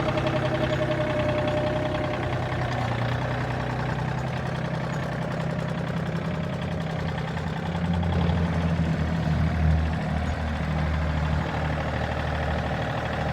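Tractor engine running steadily, with its pitch and loudness lifting for a couple of seconds about eight seconds in.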